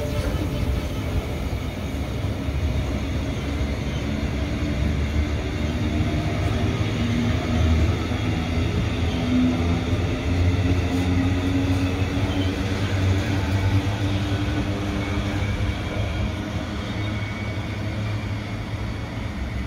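Cattle wagons of a freight train rolling past, a steady rumble of wheels on rail that eases off slightly near the end as the last wagon passes and draws away.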